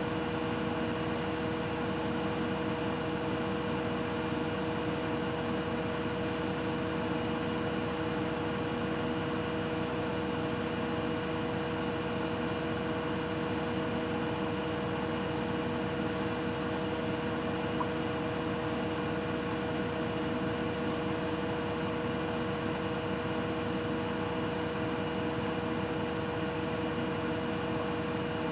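Miele Novotronic W822 front-loading washing machine spinning at a steady speed during its final spin, its motor and drum giving a steady whine with a few fixed tones over a rushing hum.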